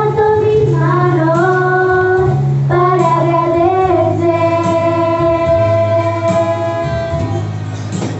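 Voices singing a Spanish-language Christian worship song with instrumental accompaniment, holding long notes over a steady bass line.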